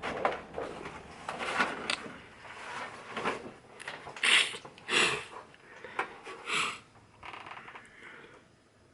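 Plastic sheets and parts of an LED TV's backlight assembly being pulled out and handled during disassembly: irregular crinkling and scraping, with the loudest bursts a little past the middle.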